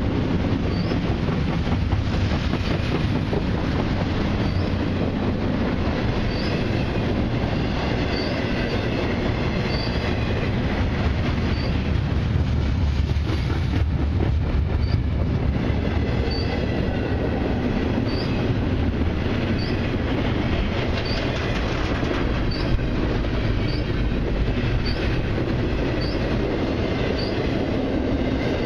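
Intermodal freight train cars rolling past steadily: a continuous rumble of steel wheels on the rails, with short, high wheel squeals recurring about once a second.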